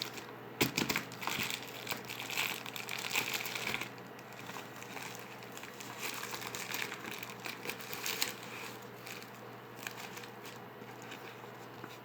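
Irregular crinkling and crackling, dense for the first four seconds or so, then lighter and more scattered.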